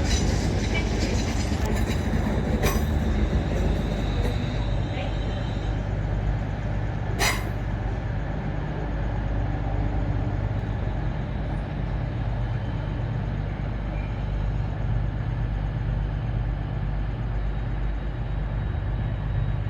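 Trains standing and moving at station platforms: a steady low rumble and hum, with a faint high whine that fades out over the first few seconds and a couple of sharp clicks.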